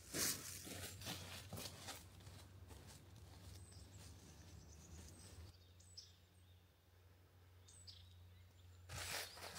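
Faint, quiet outdoor ambience with a few short, high bird chirps. Footsteps on a path in the first couple of seconds stop, then start again near the end.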